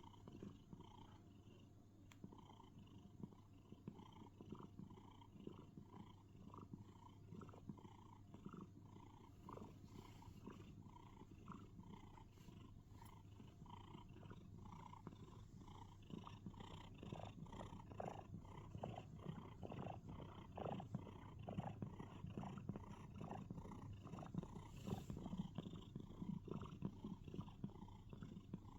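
Domestic cat purring, a faint, rough, rapid rhythm that grows a little louder about halfway through.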